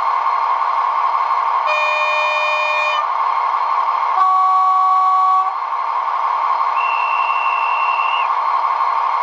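Digital sound decoder in a Roco model DB class 218 diesel locomotive, playing the diesel engine running through the model's small speaker. Over it the horn sounds twice briefly, the second blast lower and louder, and then a single high whistle tone is held for about a second and a half.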